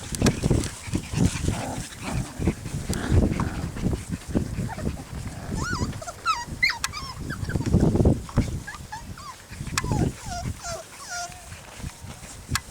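Young puppies whimpering and squeaking in short, wavering high cries, in a cluster about halfway through and again near the end, the last one a drawn-out whine. Low rustling and thumping noise goes on underneath.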